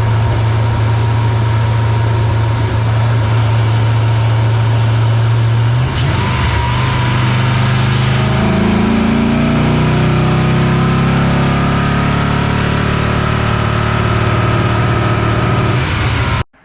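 GM 6.0 L V8 running steadily, then from about six seconds in climbing steadily in revs for several seconds and holding before it cuts off suddenly. This is a test of the truck's high-rpm misfire, which the owner traces to low fuel pressure.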